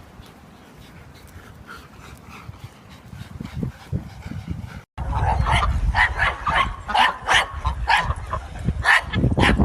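A dog barking and yipping rapidly, about three short sharp barks a second, starting about five seconds in after a quiet stretch.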